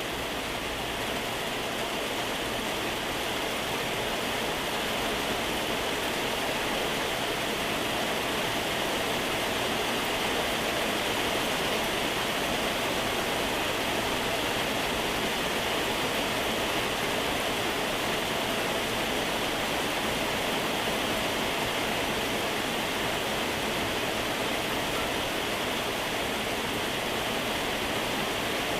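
Moderate to heavy rain falling, a steady hiss that swells slightly over the first few seconds and then holds level.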